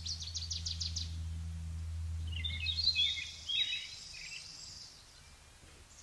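Birds calling: a rapid high trill that fades out about a second in, then a short burst of chirps. A steady low hum runs underneath and stops about three seconds in.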